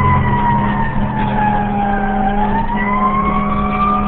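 Fire engine siren wailing: its pitch falls slowly to a low a little after two seconds in, then climbs again, over the steady hum of the truck's engine.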